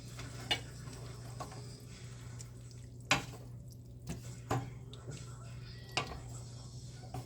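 Kitchenware clinking: four sharp knocks spread over several seconds, over a steady low hum.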